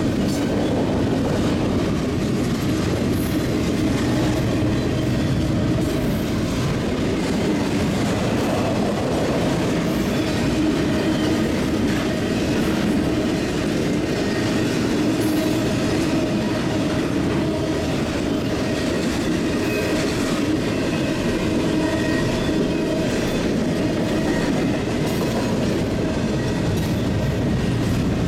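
Double-stack intermodal freight train's cars rolling past: a steady rumble of steel wheels on the rails, with faint scattered clicks.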